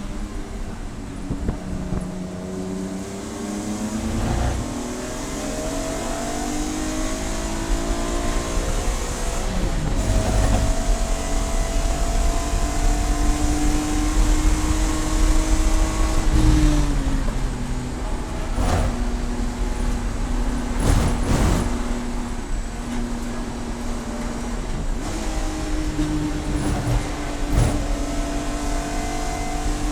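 Race car engine running under load, its pitch climbing and holding through gears, then falling as it comes off the throttle, with a few sharp knocks in the second half.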